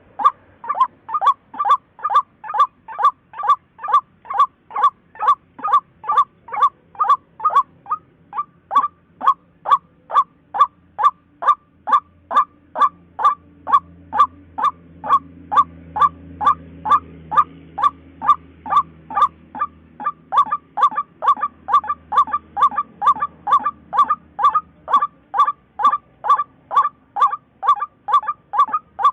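White-breasted waterhen calling a long, even run of short single notes, about two and a half a second, each dropping slightly in pitch, with a brief break about eight seconds in.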